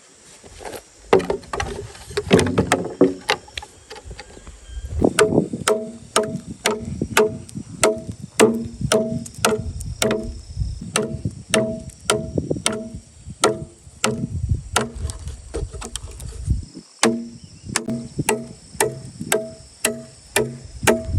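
Bamboo being struck over and over with a tool, a sharp knock about twice a second, each with a short hollow, pitched ring; the blows are irregular at first, then fall into a steady rhythm.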